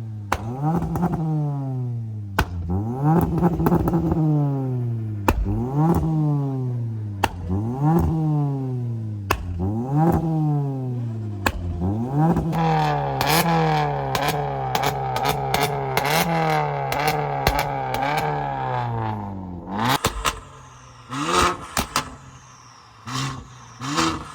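Modified car engine with a loud aftermarket exhaust being revved over and over, each rev jumping up quickly and falling back, about one every two seconds. Partway through it is held high for several seconds, then drops off suddenly, followed by a run of sharp pops and crackles from the exhaust.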